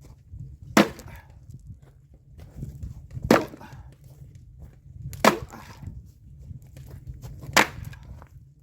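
An axe splitting firewood into small kindling pieces: four sharp blows about two to two and a half seconds apart.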